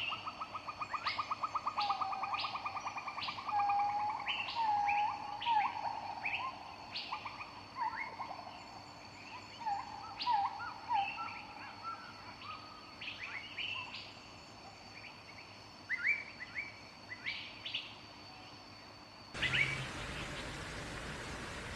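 Wild birds calling outdoors: short repeated chirps and whistled notes, with a rapid trill in the first couple of seconds and a faint steady high ringing behind them. About 19 seconds in, the sound cuts suddenly to a steady even hiss.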